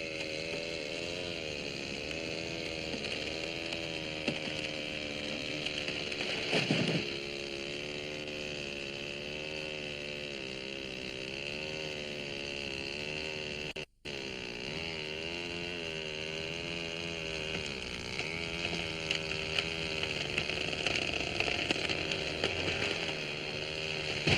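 Power saw (chainsaw) running as it cuts up a fallen log, its engine pitch wavering up and down. There is a short break in the sound about fourteen seconds in.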